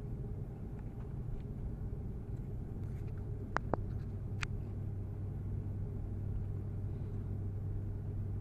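Steady low rumble and hum inside the cabin of an Airbus A330-300 just after landing, the hum growing a little stronger about midway. Three sharp clicks come close together around the middle.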